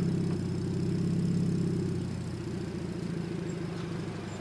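Scion FR-S / Subaru BRZ flat-four boxer engine idling through a Tomei Expreme Type-60R exhaust and Fujitsubo front pipe, a steady low pulsing exhaust note that settles quieter about two seconds in.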